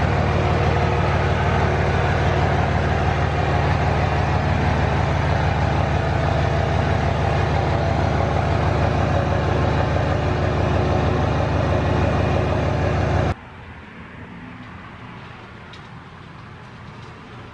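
A car engine running steadily close by, with an even low pulse, cutting off suddenly about thirteen seconds in and leaving a much quieter background.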